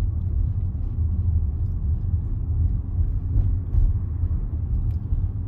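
Steady low rumble of a car driving slowly, heard from inside the cabin: road and engine noise with no sharp events.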